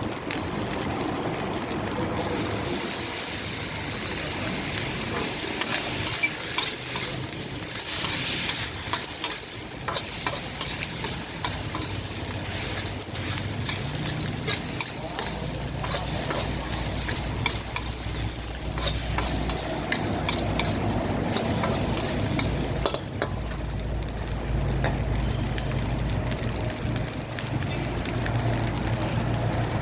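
Stir-frying in a pan: hot oil sizzling while a spatula scrapes and clinks against the pan over and over. A low steady hum comes in about halfway.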